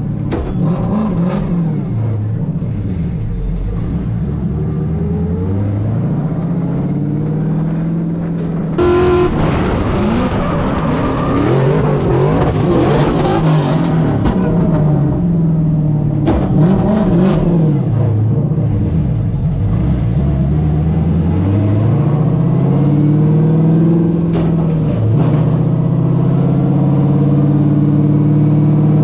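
Drift car engine at high revs, its pitch rising and falling over and over as the throttle is worked through a drift run. A louder, noisier stretch comes about nine seconds in.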